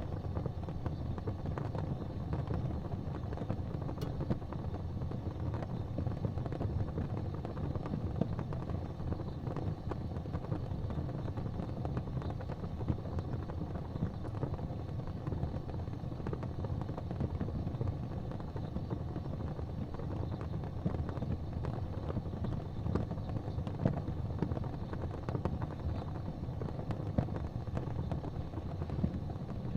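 Wood fire burning in a fireplace: a steady low rumble with small, scattered crackles and pops throughout.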